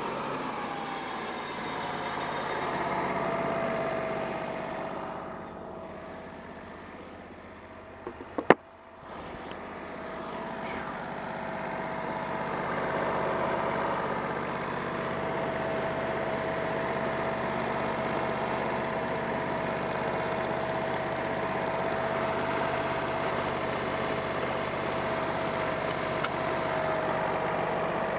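Wood-Mizer portable bandsaw mill running steadily. Its engine note drops in pitch over the first couple of seconds, then holds. A single sharp knock comes about eight seconds in.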